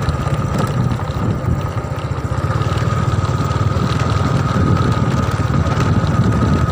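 Motorcycle engine running steadily while riding along, a dense low rumble with a thin steady whine above it.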